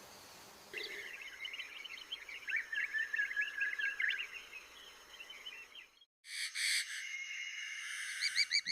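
Young birds chirping: many quick, high peeps overlapping in a busy stream. They break off about six seconds in. After a short gap a different chirping begins, with a steady high ringing and short rising notes repeated near the end.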